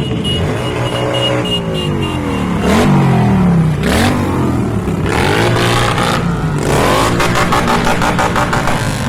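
Motorcycle engines revving hard, the revs falling and climbing again several times, with a fast, even stuttering of the engine note near the end.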